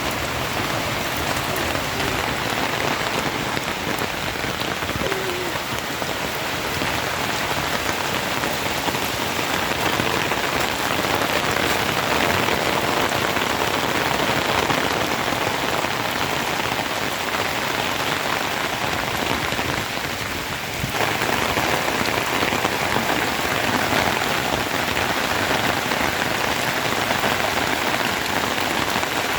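Steady heavy rain falling, a dense even hiss of countless drops, with a brief dip in level about two-thirds of the way through.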